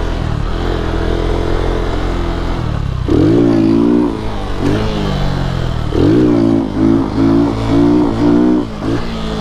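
Lifan KP Mini 150's single-cylinder four-stroke engine running, then revved hard about three seconds in and again near five seconds. From about six seconds the throttle is blipped on and off several times in quick succession, pumping the gas during a wheelie rather than holding it steady.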